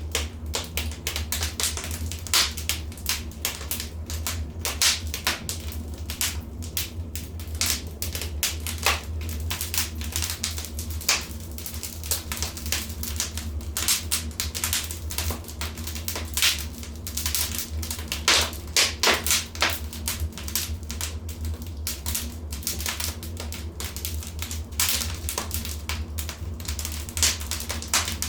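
Wood fire in a fireplace crackling, with irregular sharp pops and snaps, some much louder than the rest, over a steady low hum.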